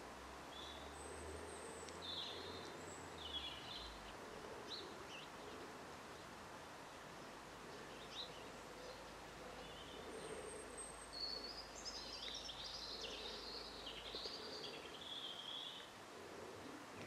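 Faint, scattered chirps and short twittering calls of garden birds over a steady background hiss, with a denser run of twittering from about 11 to 16 seconds in.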